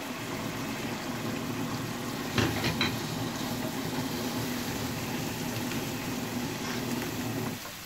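Chicken mince frying in oil in a nonstick wok, sizzling steadily while stirred with a wooden spatula, with a few quick knocks about two and a half seconds in. The sound cuts off suddenly near the end.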